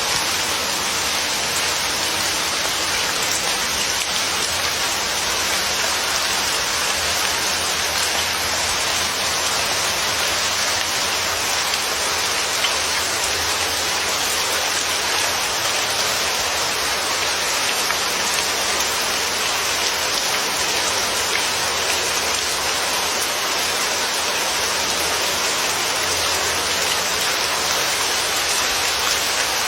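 Steady rain falling, an even hiss of many drops with no pauses or changes in strength.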